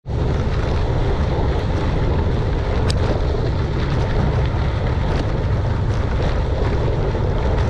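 Wind buffeting the camera microphone while riding, a steady low rumbling noise, with one brief click about three seconds in.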